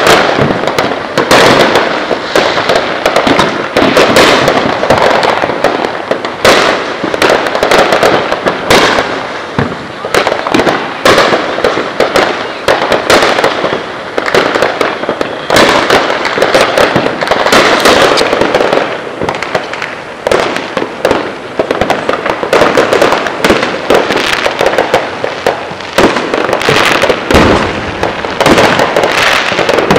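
Fireworks going off: many sharp bangs and crackling pops in quick succession, with no real pause.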